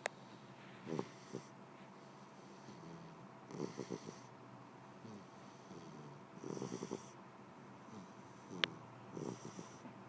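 Sleeping pit bull puppy snoring, a snore every two to three seconds, about four in all. A sharp click right at the start and a louder, sharper click near the end.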